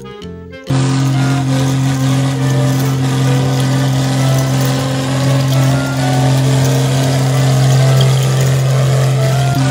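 Tractor engine running steadily, cutting in abruptly under a second in, with a constant low hum and a noisy rattle over it.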